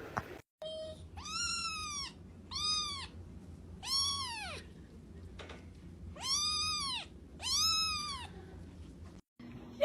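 A cat meowing five times, each meow rising and then falling in pitch, over a faint steady hum.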